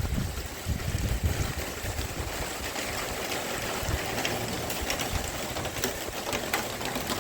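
Light rain starting to fall: a steady hiss with scattered drops ticking, over an uneven low rumble.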